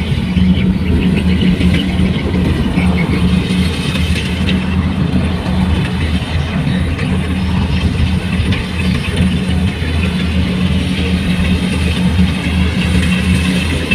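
Farm machine's engine running steadily at a constant speed, a steady low hum with no rise or fall in pitch.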